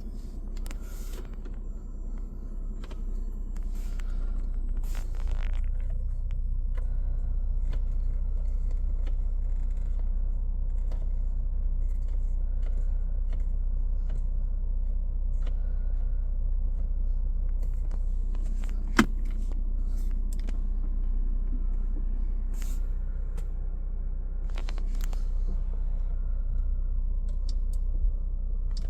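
2019 Range Rover Sport HSE engine idling with a steady low rumble that gets a little louder about five seconds in. Scattered light clicks and taps run over it, with one sharp click about two-thirds of the way through.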